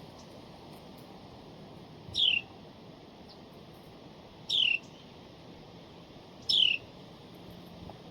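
A songbird calls three times, about two seconds apart, each a short clear note sliding down in pitch.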